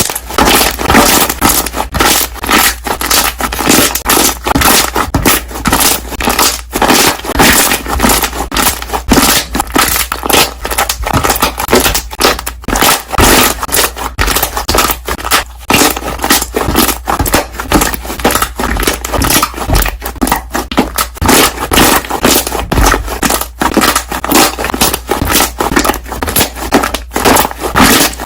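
Slime being pressed and worked by hand, with a dense, continuous run of air bubbles popping and crackling.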